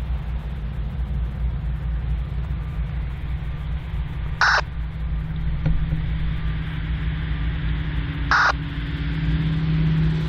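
Steady low rumble of diesel locomotive engines, with a steady engine hum coming up about six seconds in and growing louder near the end. Two short harsh calls, about four seconds apart, cut through the rumble.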